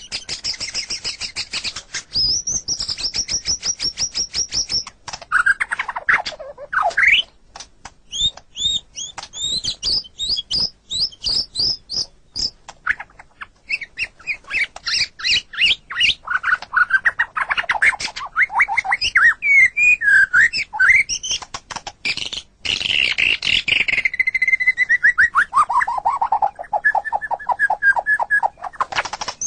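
White-rumped shama singing a varied, continuous song: fast trills of repeated high notes, whistled phrases that rise and fall, and about two-thirds of the way through a long run of notes stepping down in pitch.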